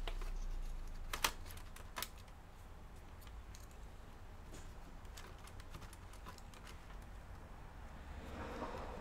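Small clicks and taps from laptop parts and screws being handled during disassembly: a few sharper clicks in the first two seconds, then lighter scattered ticks, with a brief rustle near the end over a steady low hum.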